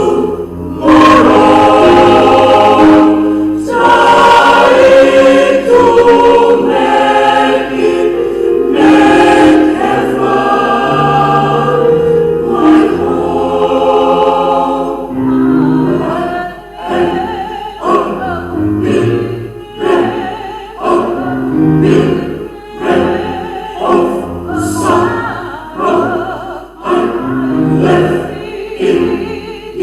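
Small church choir singing in several parts: full, loud held chords for the first half, then shorter phrases that swell and fall back.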